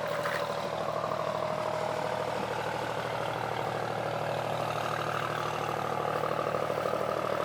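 An engine idling steadily, a continuous even hum with a fine regular pulse.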